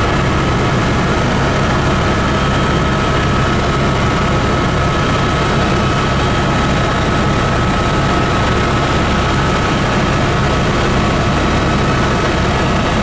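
Helicopter engine and rotor running steadily, with a constant high whine over a dense low rumble.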